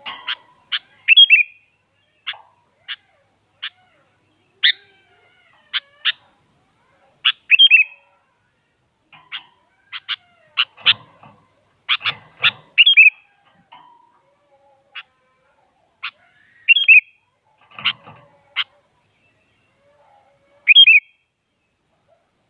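Sooty-headed bulbul (kutilang) giving quick, sharp call notes at irregular intervals. Every few seconds it breaks into a short warbled phrase: excited, agitated calling of the kind used as a lure to get other bulbuls to answer.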